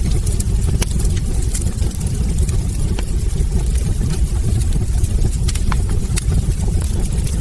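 Wood fire burning in a fireplace: a steady low rumble with frequent irregular crackles and pops from the burning logs.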